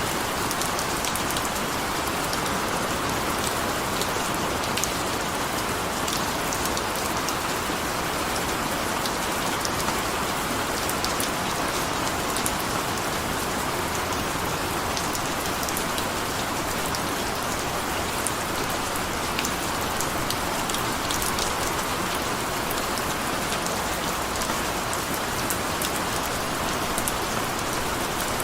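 Steady rain falling, an even hiss of drops with many small crisp drop ticks.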